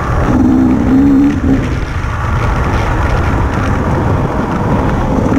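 Enduro motorcycle engine running under throttle as it rides, heard from a helmet-mounted camera, over a heavy low rumble. A clearer, wavering engine note stands out for about a second and a half near the start.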